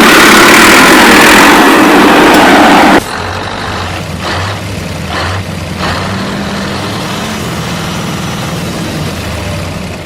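A loud, even rushing noise for about three seconds that cuts off suddenly, followed by a steady low motor hum with a few faint clicks.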